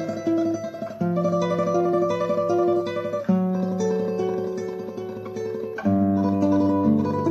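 Classical guitar playing a tremolo passage: fast repeated treble notes over a bass line that moves to a new note about every two seconds.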